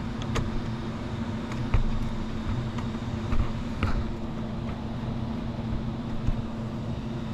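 A steady mechanical hum from a running machine, with a few light clicks of a screwdriver working the power supply's terminal screws.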